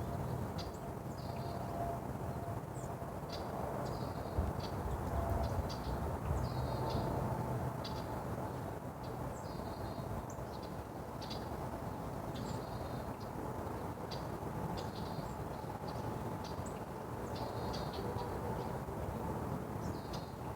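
Small birds chirping, short high chirps repeated every second or two, over a steady low background rumble.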